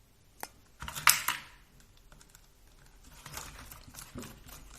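Small clicks and light clatter of tools and plastic RC car parts being handled, with a sharper click about a second in and a run of small ticks in the second half.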